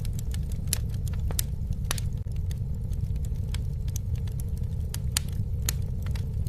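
Campfire crackling, with irregular sharp snaps and pops over a steady low rumble.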